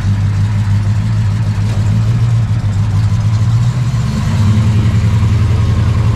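A car engine idling close by with an even pulsing beat. Its pitch and loudness step up slightly about four seconds in.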